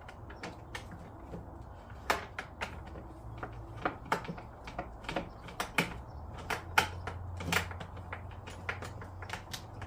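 Irregular clicks and taps of screws and plastic parts being handled and fitted while a bracket is screwed onto a plastic ride-on kids' car, the loudest clicks falling in the middle few seconds.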